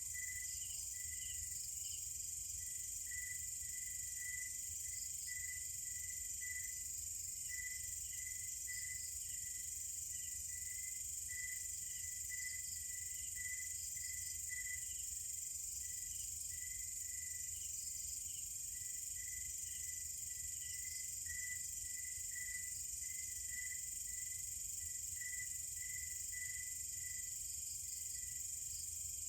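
Night chorus of crickets and other insects: a steady high-pitched trill with short chirps repeating, unevenly, about once or twice a second, over a faint low rumble.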